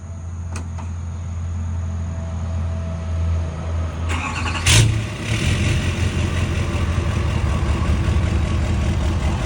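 2019 GMC 2500's 6.6-litre Duramax V8 turbo-diesel, emissions-deleted and straight-piped with the muffler removed, cold-started: after a steady low hum it fires with a sharp loud burst about four and a half seconds in, then settles into a fast-pulsing idle.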